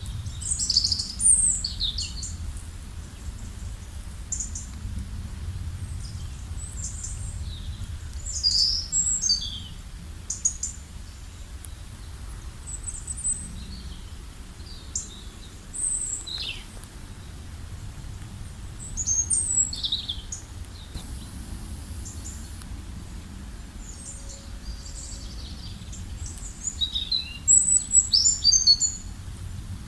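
Small birds chirping in short, scattered calls, with busier flurries about a second in, around eight to nine seconds, and a dense, loudest burst near the end, over a steady low rumble.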